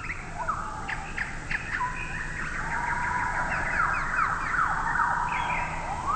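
Several birds calling at once: many quick down-slurred chirps overlapping with longer whistled notes, continuous throughout.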